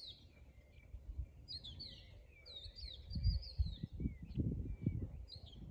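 Small birds chirping repeatedly in short, high, falling notes. From about three seconds in, low gusty rumbles of wind buffet the microphone.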